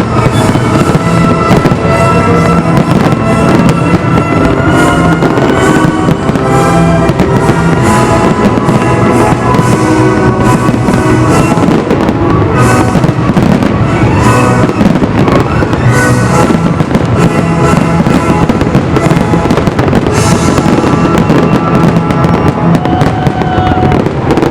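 Fireworks display: aerial shells bursting in a dense, continuous run of bangs and crackle, with music playing under it.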